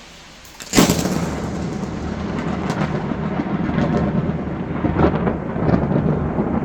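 A sudden loud crack of thunder about a second in, then heavy rain with thunder rumbling on, broken by a few sharper cracks.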